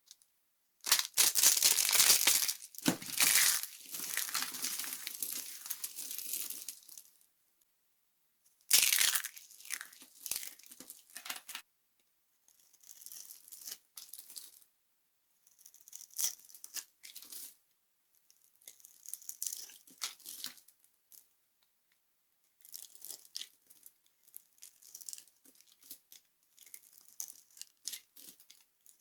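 Dry soap being crushed, crunching and crackling in bursts: two long, loud crunches in the first ten seconds, then shorter, quieter crumbling crackles with silent pauses between them.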